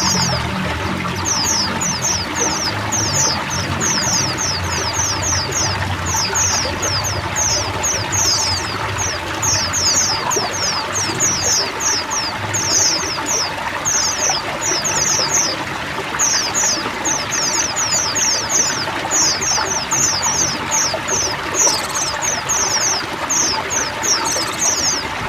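A flock of white-eyes chirping continuously, many quick high downward-sliding chirps overlapping, over a steady rush of running water.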